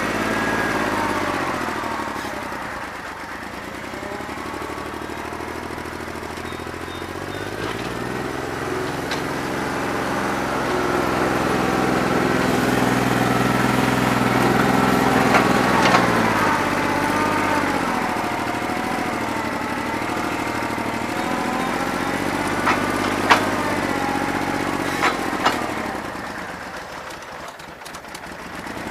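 New Holland 1320 compact tractor's diesel engine running with a bad injector, rough on its cylinders. The engine speed rises, holds for a few seconds, then drops back, with several sharp clicks or knocks in the second half.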